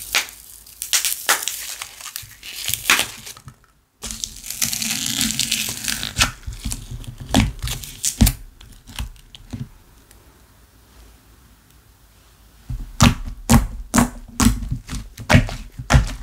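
Clay-mixed slime being stretched and pressed by hand, crackling and popping in clusters of small pops, with a quieter spell after about ten seconds before the popping picks up again.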